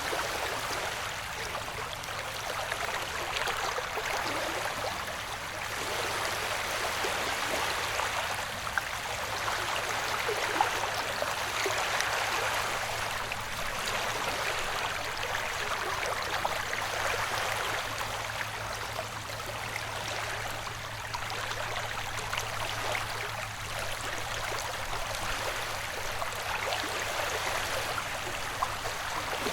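Recorded ocean waves: a continuous wash of surf that swells and eases every few seconds, with a faint steady low hum beneath it.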